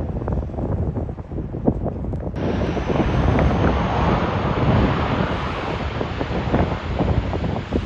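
Strong wind buffeting the microphone, with the broad rushing noise of a fixed-wing aircraft's engines coming in abruptly about two seconds in and holding steady.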